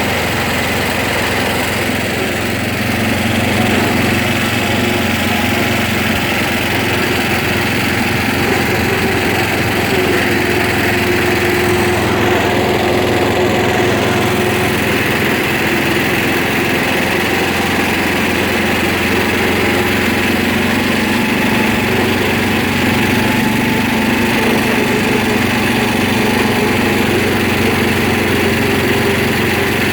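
A small engine running steadily, a little louder from about three seconds in.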